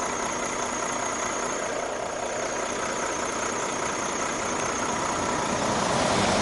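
A truck engine running steadily at idle under an even rushing noise, growing a little louder near the end.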